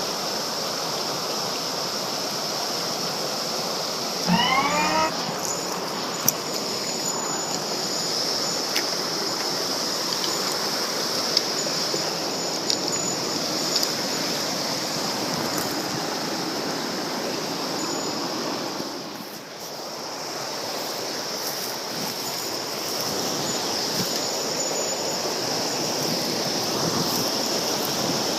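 Mountain stream water rushing steadily. A brief rising squeal comes a little after four seconds in, and a few faint clicks follow.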